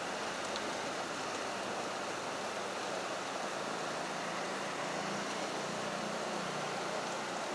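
Steady heavy rain pouring onto a road, an even rushing hiss, with a low vehicle hum swelling in the second half and fading near the end.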